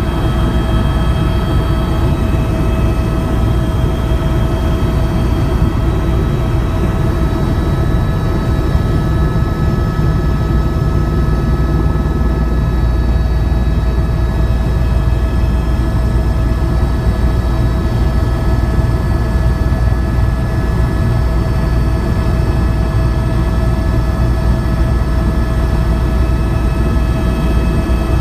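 Helicopter in flight, heard from inside the cabin: a steady, loud low rumble of rotor and engine with a constant whine over it.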